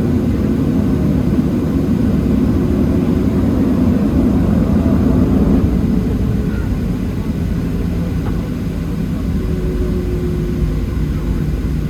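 Cabin noise inside a Boeing 737-700 on the ground: a steady low rumble from its CFM56 jet engines at low power and the cabin air, swelling slightly midway, with a faint held tone near the end.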